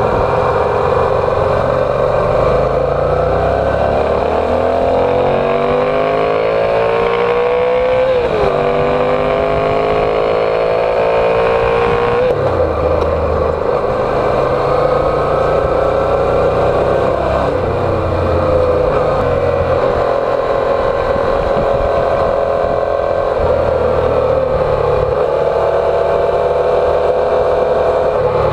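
Yamaha TDM 850's parallel-twin engine accelerating through the gears: its pitch climbs, drops sharply at gear changes about eight and twelve seconds in, then holds steadier with smaller rises and falls.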